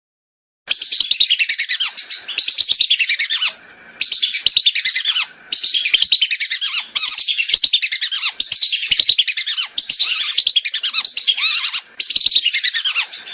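Lesser whistling ducks (belibis) giving rapid, shrill, whistled calls, many overlapping in a flock chorus. The calls start a little under a second in and run in loud spells broken by a few brief gaps.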